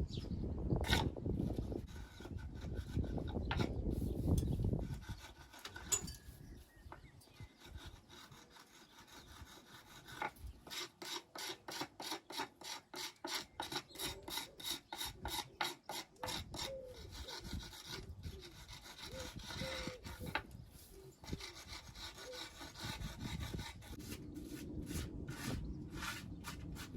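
Hand tool scraping on stone and mortar: a stretch of continuous rasping for the first few seconds, then a run of quicker strokes at about two or three a second through the middle.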